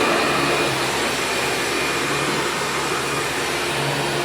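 Hoover Supreme PowerDrive upright vacuum cleaner running steadily, a constant motor whine over the rush of air.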